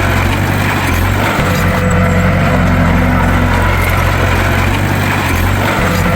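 Bulldozer's diesel engine running steadily, with brief dips in its low drone about a second in and again near the end.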